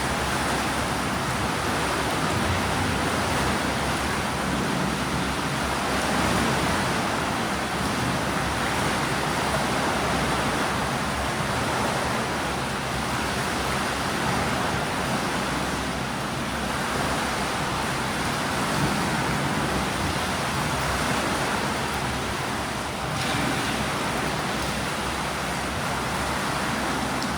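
Steady rushing wash of pool water churned by breaststroke swimmers, with no distinct splashes standing out.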